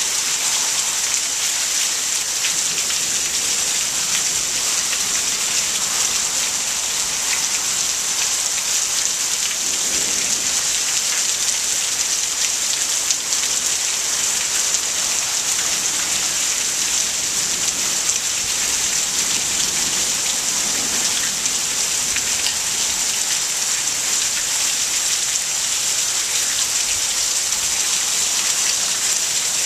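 Heavy monsoon downpour: a steady, unbroken hiss of rain pouring onto the ground and surfaces.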